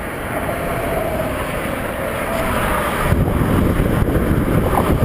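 Road traffic passing at speed: a steady rush of tyres with a faint hum that slowly falls in pitch. A heavier low rumble swells about three seconds in.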